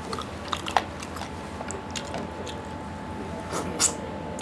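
Close-miked eating sounds: chewing a mouthful of chicken curry and rice, with wet mouth clicks and smacks, two louder ones about a second in and near the end.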